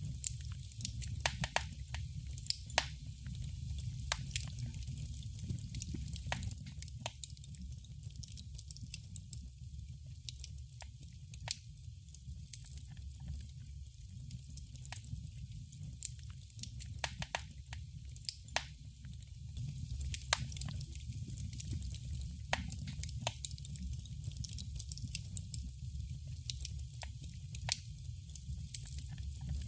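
Fire in a fireplace crackling: irregular sharp pops and snaps, several a second at times, over a steady low rumble.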